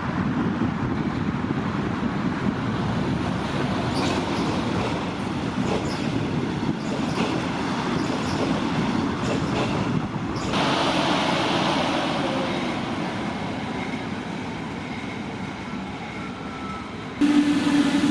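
Regional express train running past on the tracks: a steady rolling rumble with a run of clicks from the wheels. The sound changes abruptly around the middle and again near the end, where a steady low hum comes in.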